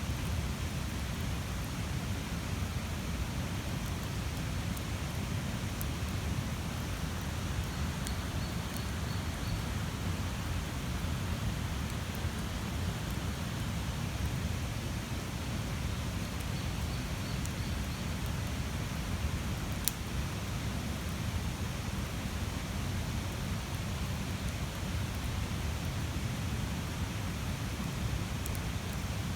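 Large wood bonfire burning steadily: a continuous low rush of flame with a few sharp crackles, the loudest pop about twenty seconds in.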